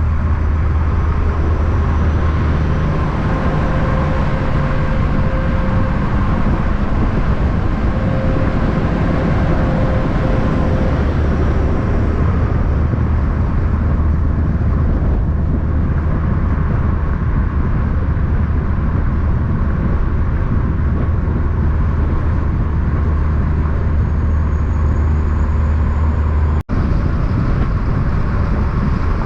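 Steady road-vehicle noise: a continuous low engine and tyre rumble from big-rig traffic, broken by a momentary dropout near the end.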